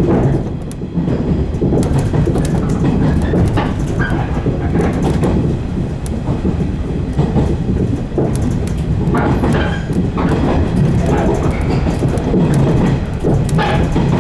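115 series electric multiple unit running along the line, a steady low rumble of wheels and motors, with scattered short clicks from the track.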